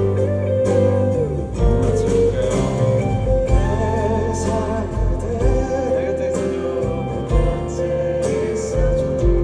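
Live band music with a steady drum beat, bass and sustained melody lines, amplified through a PA system.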